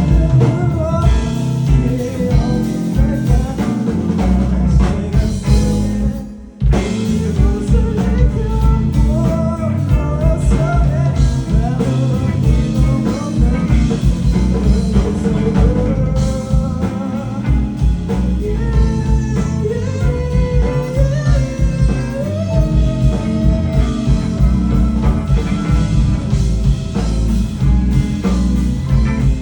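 A live rock band plays with singing, electric guitar and drums. About six and a half seconds in, the whole band stops for a moment, then comes back in.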